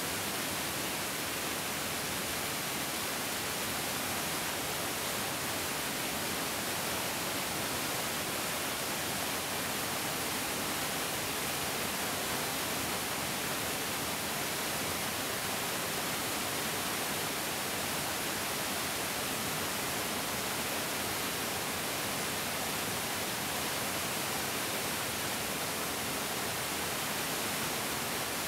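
Mountain stream rushing steadily, a dense, even hiss of flowing water with no breaks or changes.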